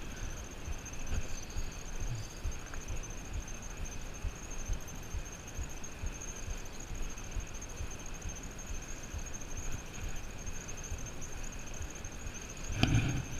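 Wind buffeting a GoPro's microphone during a bicycle ride, an uneven low rumble, with a steady high hiss over it and a brief louder burst near the end.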